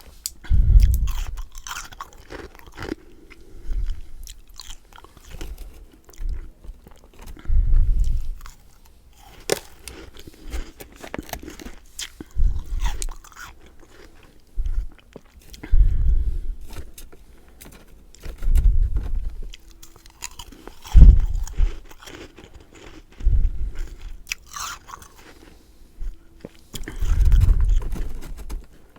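Close-up chewing and crunching of freezer frost, with a fresh crunchy bite every two to three seconds.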